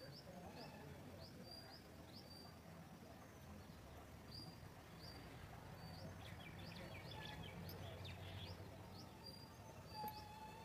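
Faint birdsong: a small bird repeating a short, high chirp two or three times a second, with a brief flurry of other chirps in the middle, over a low outdoor background hum.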